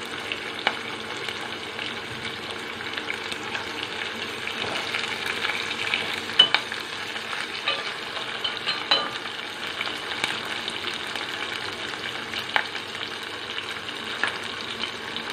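Chopped onions, curry leaves and green chillies sizzling steadily in hot oil in a steel pan during the tempering stage of a dish. A few sharp clicks and pops stand out now and then.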